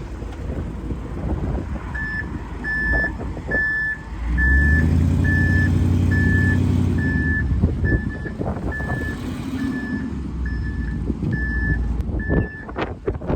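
Ford F350 dump truck's backup alarm beeping at an even pace, about four beeps every three seconds, starting about two seconds in, over the truck's running engine. The engine picks up revs about four seconds in and holds higher for a few seconds.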